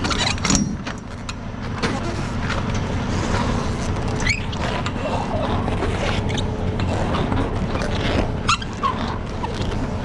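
Semi-truck diesel engine idling steadily, with scattered clicks and clanks over it.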